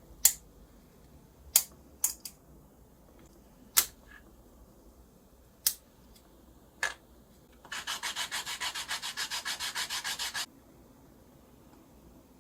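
Several sharp, separate clicks and taps, then a burst of fast back-and-forth sanding strokes, about eight a second, lasting nearly three seconds: sandpaper rubbed by hand over the cello's wood.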